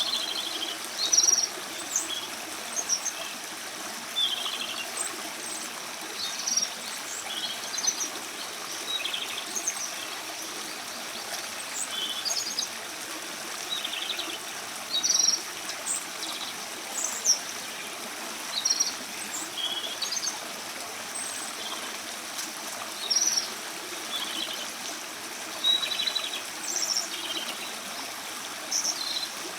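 Japanese robin singing, repeating short, high, ringing phrases every second or two over a steady rush of running water.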